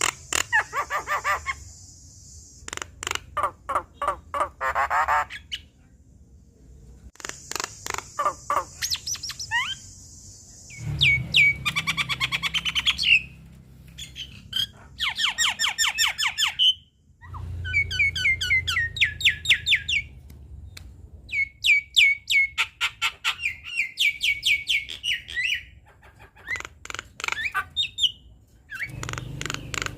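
Javan myna singing in bouts of a few seconds, with rapid runs of harsh clicks, chatters and squawks and repeated sharp notes.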